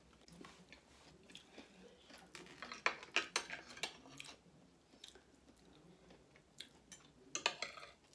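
Close-up eating sounds: chewing and crunching of salad and kebab, with scattered sharp clicks of a fork and knife against a plate. There is a flurry of clicks around three seconds in and another near the end.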